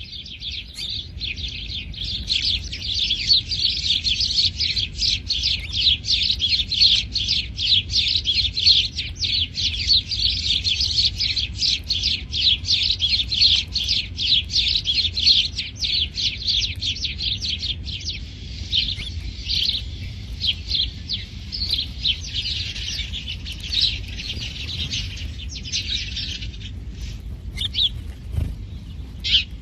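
House sparrows chirping in a rapid, continuous stream of short high calls, the insistent begging of young sparrows being hand-fed; the chirps thin out near the end.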